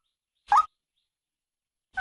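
Female white-breasted waterhen giving short calls that slide upward in pitch, one about half a second in and another just at the end.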